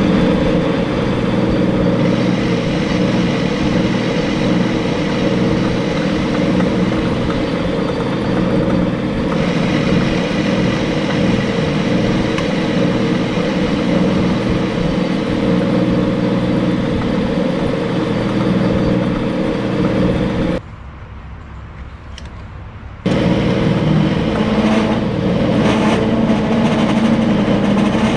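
Power machine tool running steadily under load, a loud, even mechanical hum with several steady pitches. About 21 s in it drops away for about two seconds, then resumes as before.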